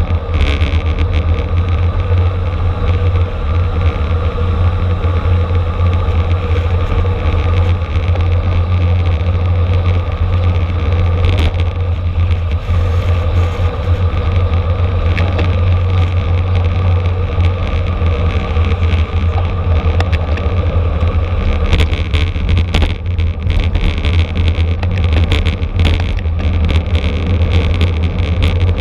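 Steady wind rush and low rumble, as from wind on a camera microphone and tyres on the road while riding in a bicycle race, with a few faint clicks later on.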